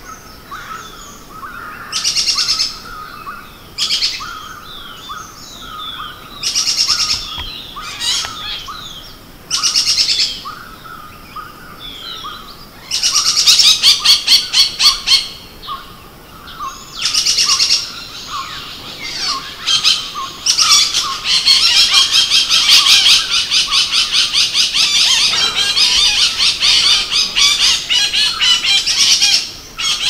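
Forest bird calls: short high bursts a couple of seconds apart, then fast rattling trills, the longest running unbroken for about the last third.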